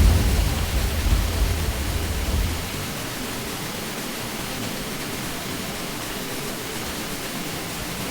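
Steady, even rushing noise of a ceiling fan, with a deep low rumble under it for the first two and a half seconds that then fades out, leaving only the smooth hiss.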